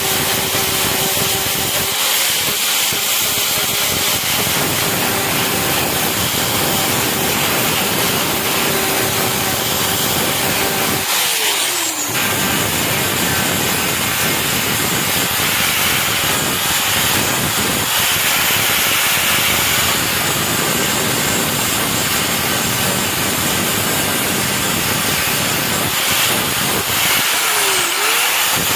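An electric power tool's motor running steadily under load, with a steady hum and a wide grinding hiss. Its pitch drops about a third of the way in, and dips and comes back up near the end.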